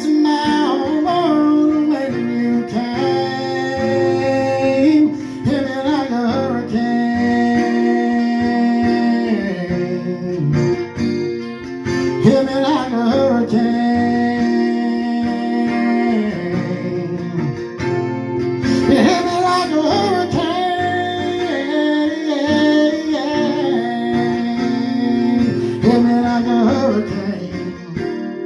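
Acoustic guitar strummed, with a voice singing the song over it.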